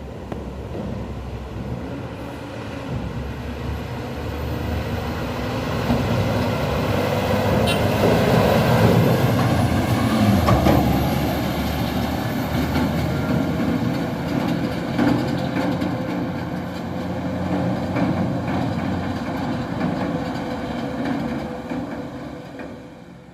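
Heavily loaded dump truck's diesel engine running as it passes. It grows louder to a peak about nine to eleven seconds in, stays loud, then fades near the end.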